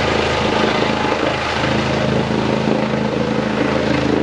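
Police helicopter's rotors and engine running, a steady loud drone with several even tones.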